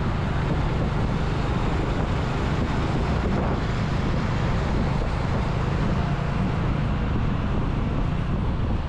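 Steady wind rumble on the microphone from a riding motorcycle, with its engine running and road and traffic noise underneath.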